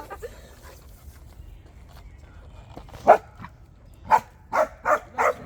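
Dog barking: a single bark about three seconds in, then four quick barks near the end.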